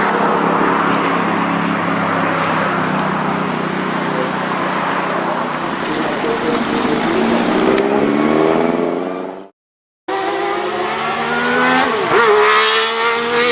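First-generation Nissan Silvia (CSP311) engine accelerating hard, its pitch rising and falling with throttle and gear changes. The sound cuts off about nine and a half seconds in, then the engine is heard again, revving and climbing in pitch.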